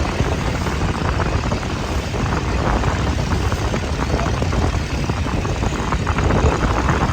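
A boat's engine running steadily under a constant rushing noise.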